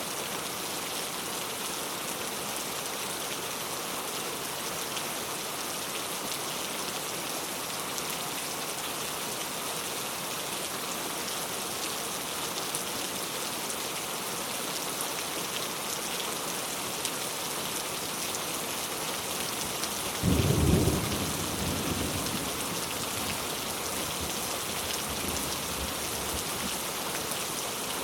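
Heavy rain falling steadily. About two-thirds of the way through, a sudden loud thunderclap breaks in and rumbles away over several seconds.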